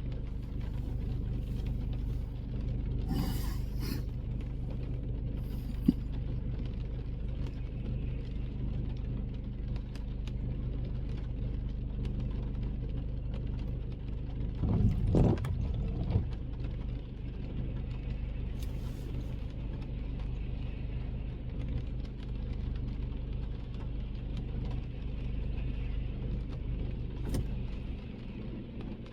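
Car driving in the rain: steady engine and road rumble with tyre noise. There is a louder rumble for a moment about halfway through, and a few faint clicks.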